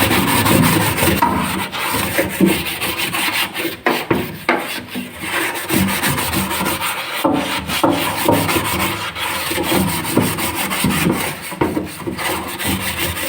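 Scouring pad scrubbing a plastic refrigerator part in detergent water: rapid, continuous back-and-forth rubbing strokes.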